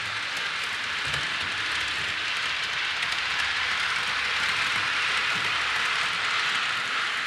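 A train rolling past, with a steady rushing noise from the wheels on the rails and faint clicks through it.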